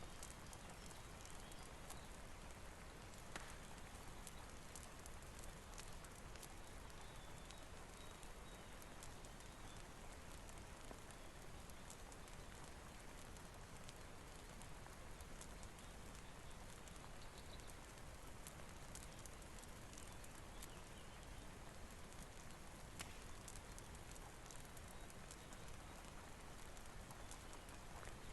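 Steady rain hiss, with scattered small sharp crackles of a wood fire mixed in.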